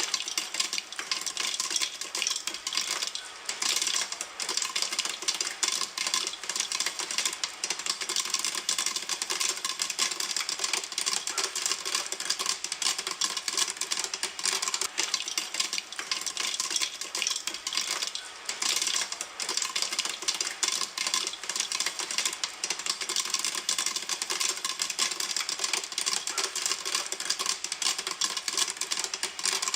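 Popcorn kernels popping in a pan: a dense, fast, unbroken run of sharp pops and clicks.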